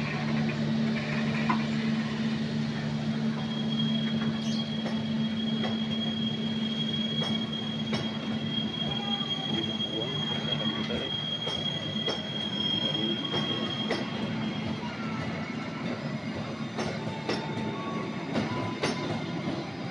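Passenger coaches of the KA Pangrango train rolling past, their wheels rumbling and clicking over the rail joints, the clicks coming more often toward the end. A thin, steady, high wheel squeal runs from about 4 s to 14 s, over a low steady hum that fades about halfway through.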